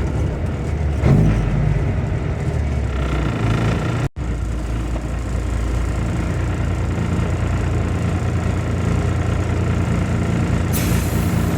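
Grain truck engine running steadily at low speed, a deep rumble. Near the end a short burst of hiss rises over it.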